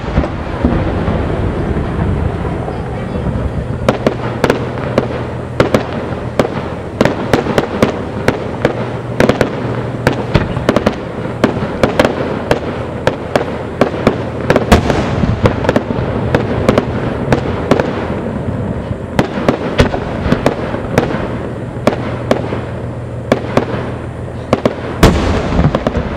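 Aerial fireworks finale: shells bursting in quick succession, several bangs a second over continuous crackling, with heavier booms about fifteen seconds in and again near the end.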